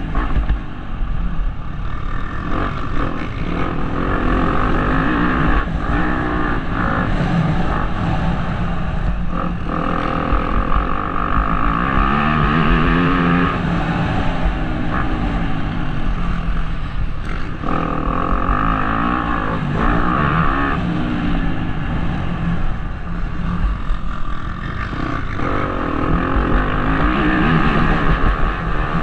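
Motocross bike engine revving up and falling back over and over through gear changes, with heavy wind rumble on the helmet-camera microphone.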